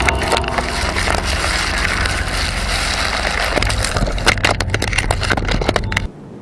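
Explosion blast and its aftermath: a heavy, loud rushing rumble full of cracks and pops, denser in the second half, cut off suddenly about six seconds in.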